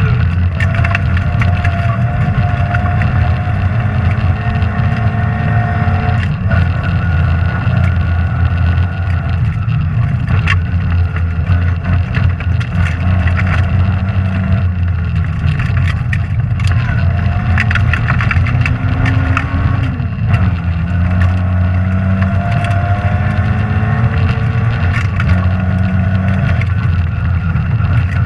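Rally car's engine running hard, its pitch climbing through the revs and dropping sharply at several points where the driver shifts or lifts off. Sharp clicks and knocks are scattered over the engine sound.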